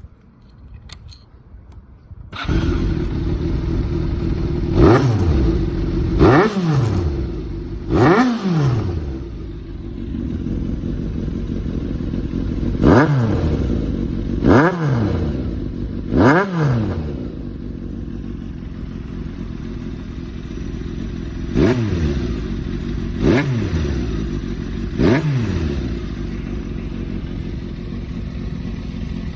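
Honda CBX550F air-cooled inline-four motorcycle engine catching on the starter about two seconds in, then idling steadily. The throttle is blipped nine times in three groups of three quick revs. The seller judges that it starts on the first press and has little abnormal noise.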